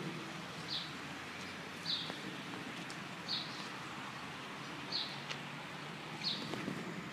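A bird calling over and over, one short high chirp about every second and a half, over steady outdoor background noise.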